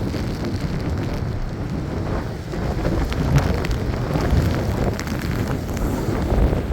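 Storm-force wind buffeting the microphone in a dense, steady low rumble, with scattered ticks of rain.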